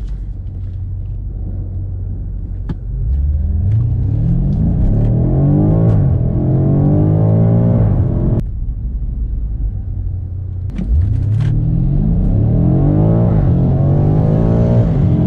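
BMW M5 F90's 4.4-litre twin-turbo V8, heard from inside the cabin, accelerating hard. The engine note climbs with the revs and drops back at each upshift, first from about three seconds in and again from about eleven seconds in. It cuts off sharply about eight seconds in, between the two runs.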